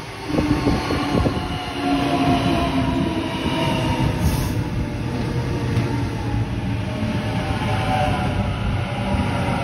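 Sydney Trains A-set (Waratah) double-deck electric passenger train running past close by as it arrives at the platform: a steady rumble of wheels on rail, with a few faint steady tones over it.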